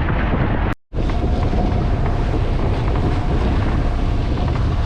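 Wind buffeting the microphone over the running engine of a boat out on rough sea. The sound cuts out for a split second just under a second in.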